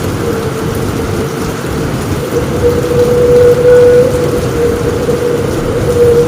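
Heavy rain drumming on a roof with thunder rumbling underneath, swelling louder about three seconds in. A steady low tone runs through the noise.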